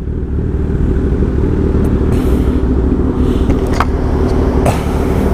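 Motorcycle engine idling steadily while stopped at a traffic light, with road traffic around it. Two short clicks come near the end.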